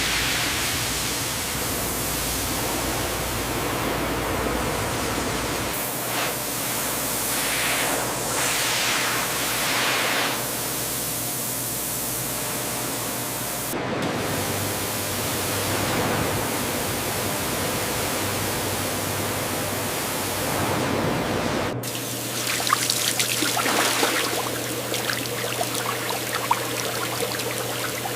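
Steady rushing noise of factory machinery over a low hum, changing abruptly three times as the footage cuts. The last stretch adds scattered crackles and ticks.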